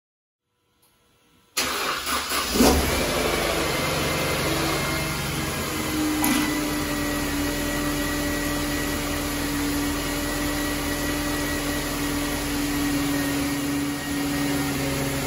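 Car engine starting about a second and a half in and then idling steadily. It is driving the 722.6 automatic transmission's pump, which pushes the old fluid out of the disconnected cooler return line during a transmission flush.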